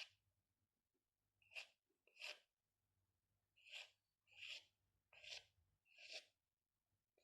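Faint scratching of a drawing tool stroking across paper: about seven short, separate strokes, roughly one every second, with brief pauses between them.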